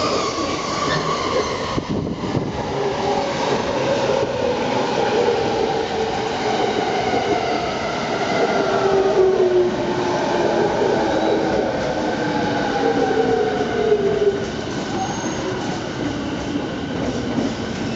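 E217 series electric train braking into a station: its traction motors whine in several tones that fall slowly in pitch over a steady rumble of wheels on rail, the falling whine fading out about 14 seconds in as the train slows to a stop.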